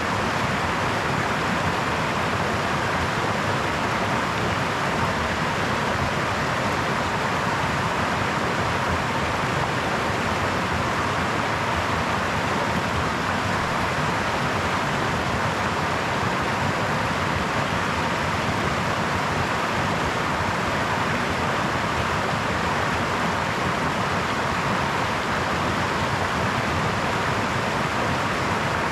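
Brook water running steadily: an even, unbroken rushing hiss with no separate splashes or other events.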